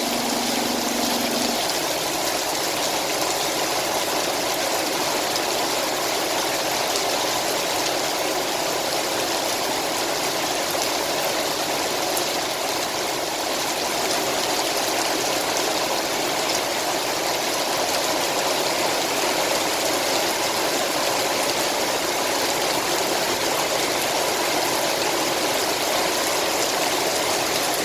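Heavy rain falling steadily, a dense even rush of water. A low steady hum runs under it and stops about a second and a half in.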